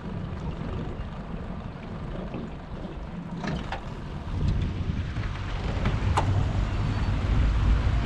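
Wind buffeting the microphone and fast current moving around a boat, with a few sharp knocks. The low rumble grows louder about halfway through.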